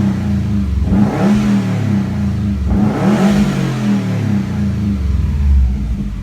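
2016 Subaru WRX STI's turbocharged flat-four boxer engine, freshly cold-started, revved twice with short throttle blips and then settling back to a deep idle near the end. It breathes through a Magnaflow Competition catback with the muffler deleted and is heard from inside the cab with the windows down.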